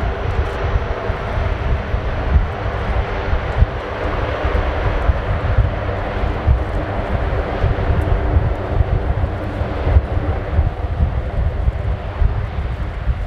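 Lockheed Martin KC-130J Super Hercules turboprop engines and propellers running at takeoff power: a loud, steady drone with a gusty low rumble underneath, and a propeller hum that fades over the first few seconds.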